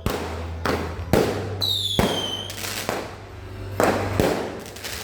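Home fireworks going off: a string of about six sharp bangs, with a high whistle that slides downward about two seconds in.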